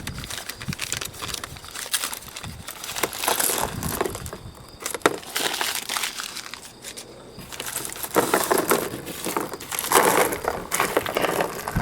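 A sealed military surplus ammunition 'spam can' being opened by hand: irregular crunching, crinkling and clicking of the metal can and its packing.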